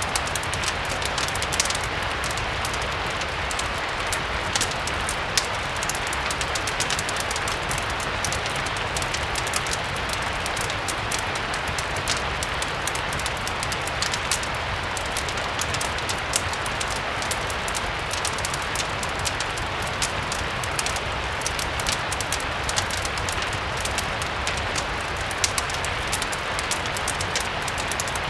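Steady rain mixed with a crackling fireplace: an even hiss of rainfall with scattered sharp pops and crackles, over a low rumble.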